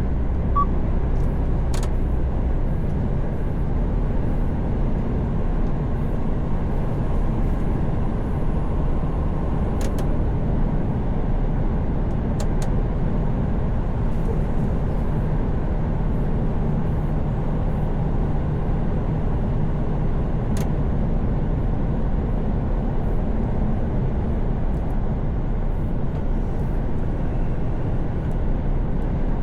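Mercedes Actros truck cruising on the motorway, heard from the driver's seat: a steady low engine drone and tyre and road noise, with a few faint clicks.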